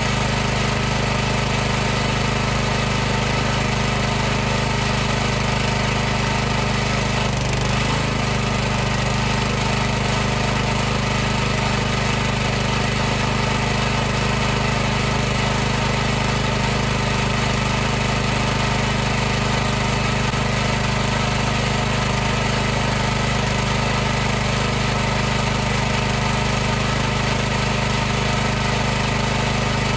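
High-pressure washer's motor and pump running with a steady, even hum; the pitch dips briefly about seven and a half seconds in, then settles back.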